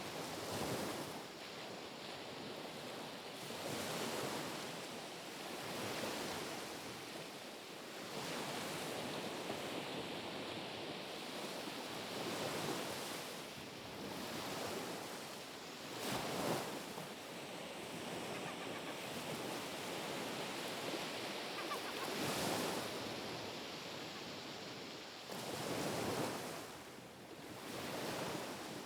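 Small, gentle sea waves lapping on the shore, a steady wash of water that swells and falls every few seconds as each low wave breaks.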